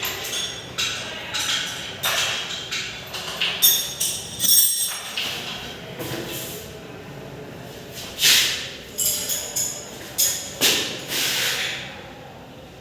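Irregular metallic clinks and rattles of hand tools and loose engine parts being handled during an engine teardown. They come in quick clusters and die down near the end.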